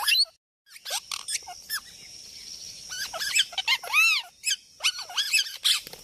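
Bird calls, repeated short squeals that each rise and fall quickly in pitch, coming in clusters, the loudest about four seconds in. A steady high-pitched hum runs underneath, and all sound drops out for a moment about half a second in.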